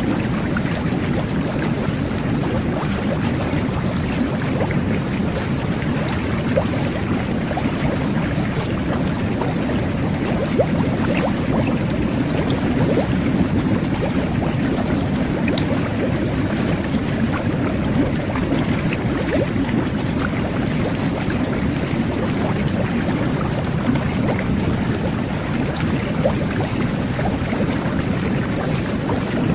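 Jet bath (whirlpool bathtub) running: water churning and bubbling steadily under the jets' air and water flow.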